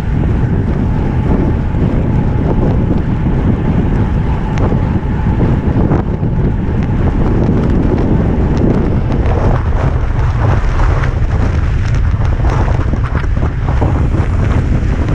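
Wind buffeting the microphone in a steady, loud low rumble, with scattered short clicks and rattles in the second half.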